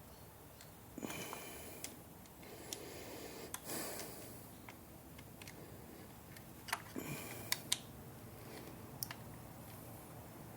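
Scattered light clicks and a few short scraping rattles of hand tools on the engine as the bolts of a new PCV valve housing are done up by hand, little by little.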